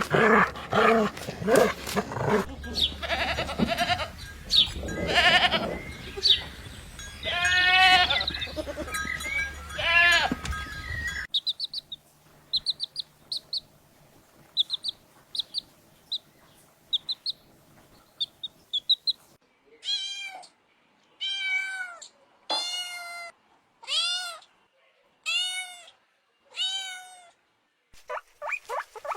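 A sequence of animal calls from different recordings. There is a busy stretch of calls with a background hum, then a run of short, high chirps, and near the end about nine separate pitched cries, each about half a second long, roughly a second apart.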